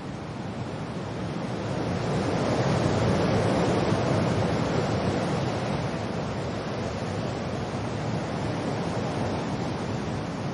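Wind and rain rushing steadily, swelling in a gust about two to four seconds in, then easing back.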